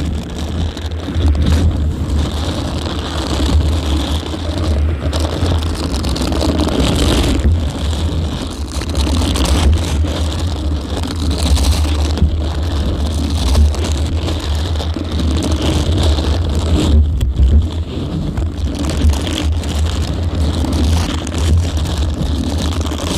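A small motor running steadily close to the microphone: a low hum with an even hiss over it.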